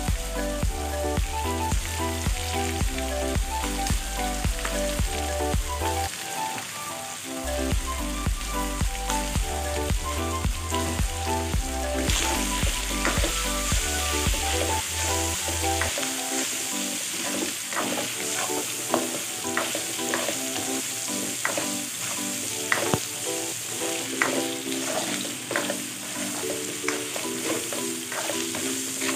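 Chicken pieces sizzling in butter in a non-stick pan, the sizzle growing louder about halfway through. In the second half a spatula stirring the chicken scrapes and knocks against the pan. Background music with a melody and a bass line plays throughout.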